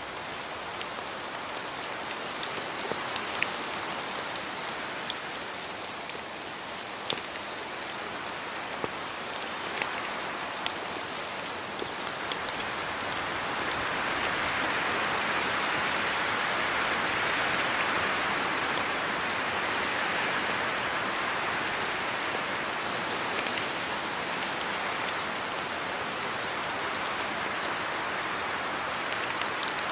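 Steady rain falling on a house yard, an even hiss dotted with sharp drop ticks, swelling heavier for several seconds in the middle.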